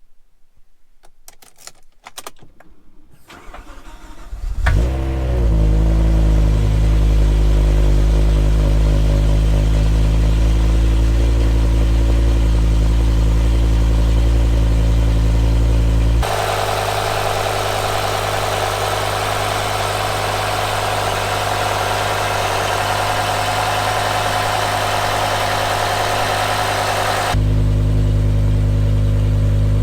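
Cold start of a BMW E60 M5's S85 5.0-litre V10: a few faint clicks, a brief crank, then the engine catches about four and a half seconds in with a short rev flare and settles into a steady idle. About sixteen seconds in, the sound abruptly loses its low end and turns hissier, then returns to the deeper idle near the end.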